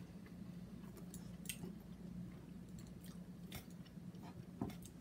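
A person chewing hazelnuts, with a few faint crunches.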